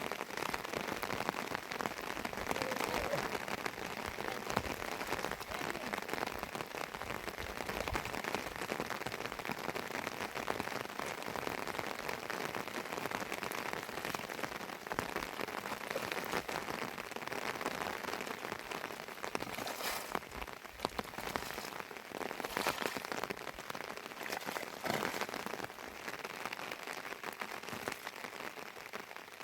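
Heavy rain falling steadily, a dense hiss of countless drops, with a few louder hits in the second half.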